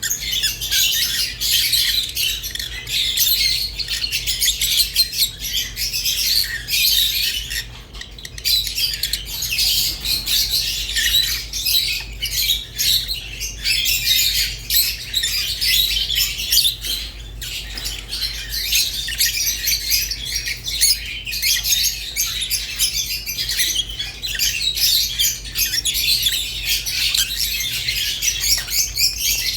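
Rosy-faced and Fischer's lovebirds chirping and squawking nonstop, many shrill calls overlapping in a dense chatter, over a low steady hum.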